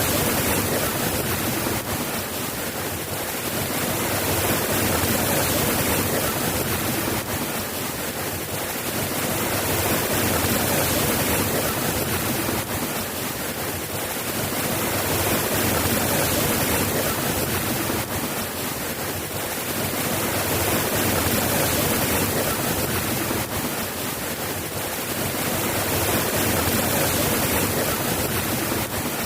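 Steady rain falling, a dense even hiss that swells and eases every five or six seconds.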